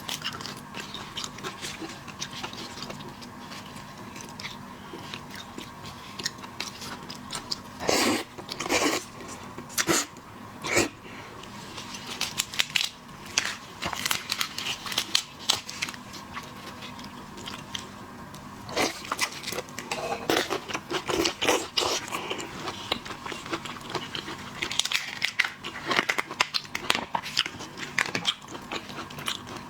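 Close-up mukbang eating sounds: a person biting, crunching and chewing shellfish, with irregular wet clicks and crunches and a few louder bites.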